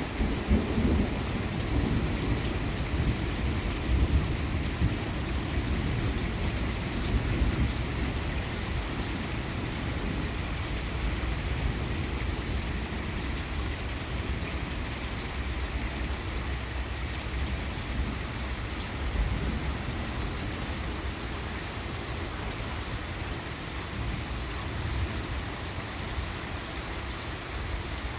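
Steady rain falling through a thunderstorm, with thunder rumbling low in the first several seconds and then easing off, leaving the rain.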